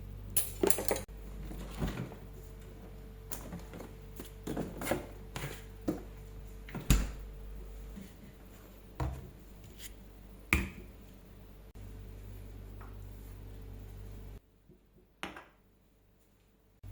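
Kitchen utensils and containers clicking and knocking, a dozen or so separate taps and clinks of spoons, bottles and dishes as the sauce ingredients are measured out, over a low steady hum. Near the end the hum cuts out and a single click follows.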